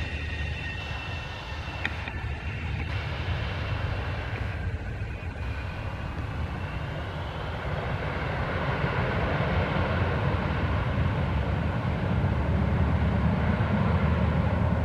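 Aircraft engine running at the airfield, steady with a faint high whine early on, growing louder through the second half as it comes closer or powers up.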